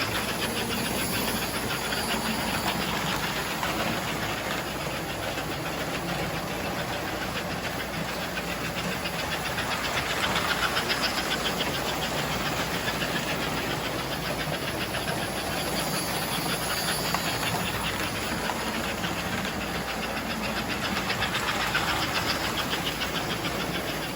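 American Flyer model steam locomotive running on its track: a steady hissing, clattering rumble with a fast fine rhythm that swells louder a few times.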